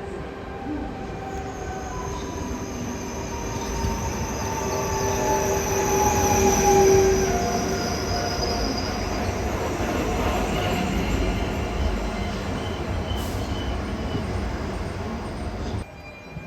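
PESA Elf EN76 electric multiple unit pulling in and braking, its traction drive whining in several tones that slowly fall in pitch, with wheel and brake squeal over the rumble of the wheels. It is loudest about seven seconds in, and cuts off abruptly just before the end.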